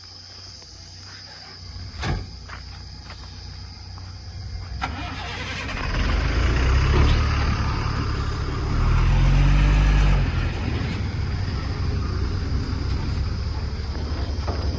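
Heavy diesel engine of an earthmoving machine, quiet at first with a single knock about two seconds in, then revving up from about five seconds in in two loud surges before settling into a steady run.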